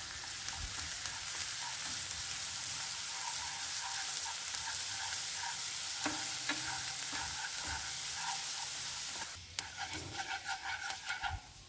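Minced garlic and lemongrass sizzling in hot oil in a nonstick pan while being stirred with wooden chopsticks, frying until fragrant and golden. The steady sizzle drops away about nine seconds in, leaving scattered crackles and light clicks.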